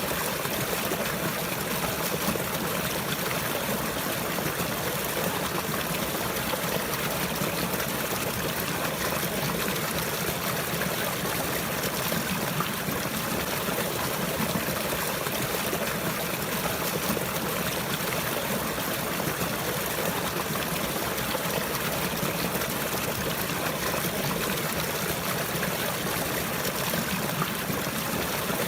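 Running water: a steady, continuous trickling stream.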